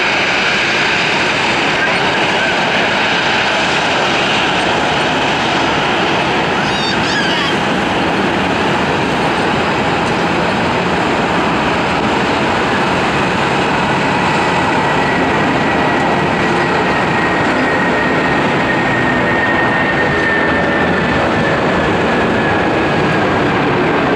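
Boeing 737-800's CFM56-7B jet engines running at taxi power, a steady roar with a whine that slowly falls in pitch through the second half.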